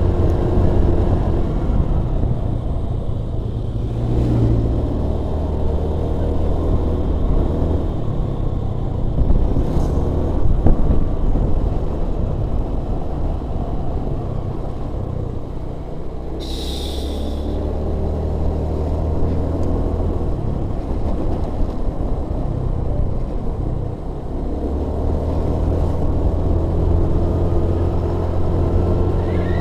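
Vehicle engine running under way, its pitch shifting now and then as it works along a steep, winding road. A brief high-pitched sound cuts in once, about halfway through.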